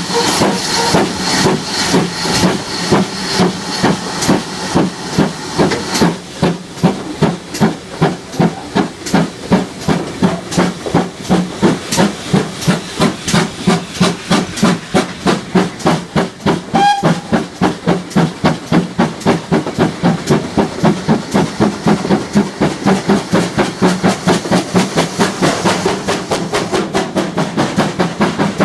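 Steam locomotive, a GWR 56xx 0-6-2T tank engine, working hard with loud, regular exhaust beats that quicken as it gains speed. Heavy steam hiss stops about six seconds in, and a brief whistle-like tone sounds about two-thirds of the way through.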